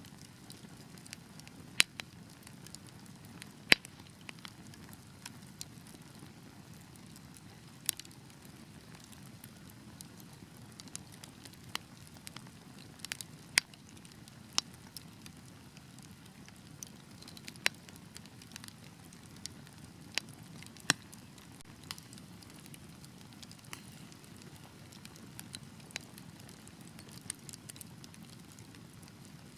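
Wood fire burning in a fireplace: a steady low rustle of flames with irregular sharp crackles and pops, a couple of them much louder than the rest.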